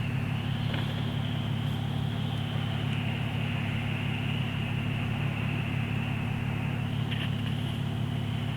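Steady low hum of a car, heard from inside the cabin, with a thin high whine running over it.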